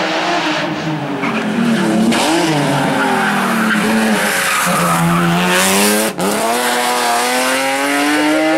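Rally car engine at high revs, its pitch rising and falling through throttle and gear changes, with a brief cut about six seconds in before it pulls up steadily again.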